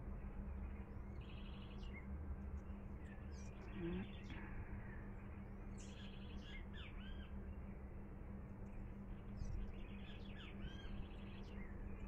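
Small birds chirping in a garden: short quick trills and falling call notes every few seconds, over a steady low hum.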